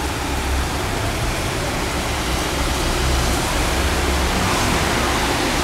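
Heavy summer rain pouring down in a steady hiss, heard through an open window, with a low rumble underneath.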